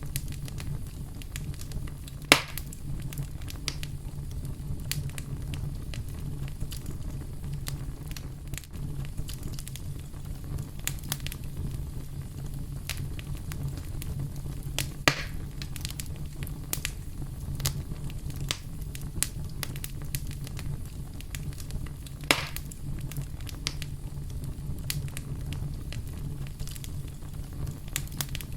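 Campfire crackling steadily over a low rumble, with many small snaps of burning wood. Three louder pops stand out: about two seconds in, about halfway, and about three-quarters of the way through.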